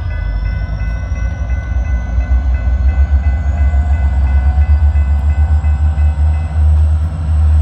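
EMD GP40-2 diesel-electric locomotives running, their 16-cylinder turbocharged engines giving a deep, loud rumble that swells and pulses after a couple of seconds, with a thin high whine slowly rising in pitch over it.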